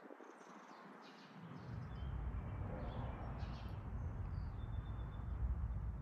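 A few scattered, faint bird chirps over a low rumble that sets in about a second and a half in.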